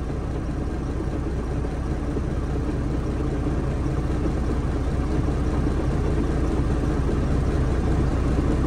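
A vehicle engine running steadily with a low hum, getting gradually a little louder.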